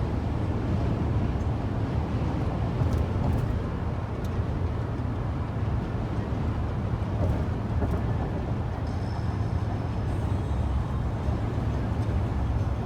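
Steady drone of a car in motion, heard from inside the cabin: engine and road noise.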